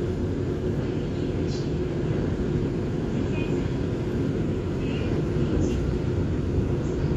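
Steady low rumble of a moving Gyeongui–Jungang line electric commuter train, heard inside the passenger car, with faint brief higher squeaks now and then.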